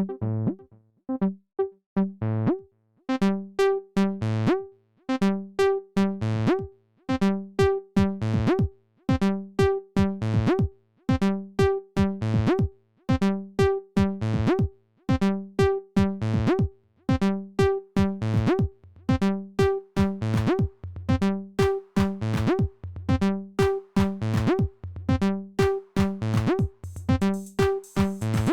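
Roland T-8 rhythm machine playing a looping electronic groove of pitched synth-bass notes and drum-machine hits. The pattern thickens about three seconds in, and a high hiss joins near the end.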